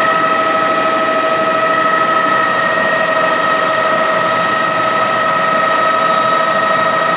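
Helicopter in flight heard from aboard: a steady engine and rotor noise with a constant high whine at several pitches, unchanging throughout.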